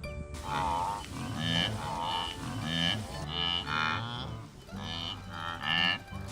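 Animal calls, short and pitched, repeated about twice a second with small gaps between runs.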